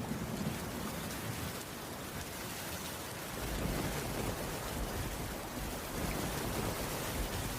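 Steady heavy rain hissing on a cabin roof, with a low rumble that fades in the first seconds and swells back after about three seconds.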